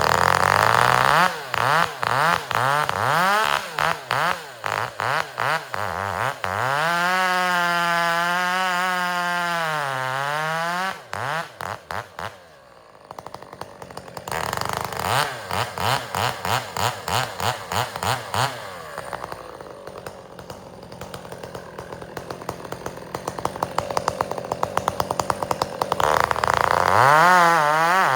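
Two-stroke chainsaw bucking firewood: the engine is revved and loaded in the cut, its pitch sagging and recovering, drops low about halfway through, then revs up again near the end.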